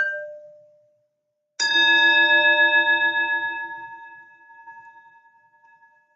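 A singing bowl is struck: a light tap right at the start dies away within a second. About one and a half seconds in comes a strong strike that rings with several tones at once, the lowest wavering in a slow beat, and it fades over about four seconds.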